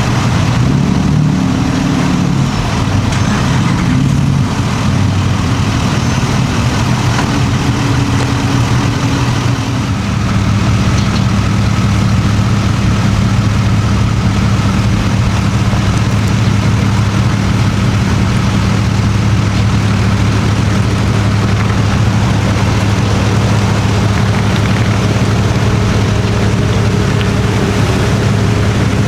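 Engine running close by, its pitch shifting for the first several seconds and then settling into a steady idle.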